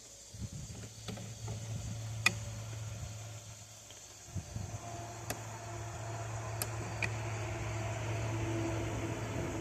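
A few sharp metallic clicks and taps of hand tools and small parts being handled on a chainsaw as the carburetor screws are worked out, over a steady low hum.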